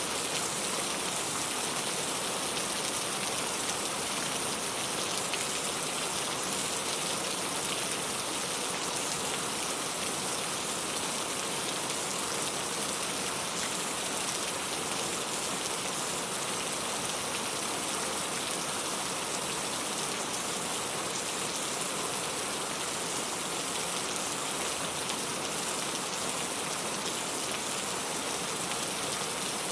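Steady rain falling, an even hiss of many drops on a surface with no change in strength.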